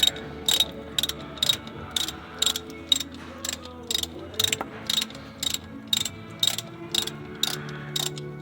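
Hand ratchet wrench clicking in a steady rhythm, about two to three clicks a second, as bolts on a Ford 7.3 turbo diesel's oil cooler housing are worked loose.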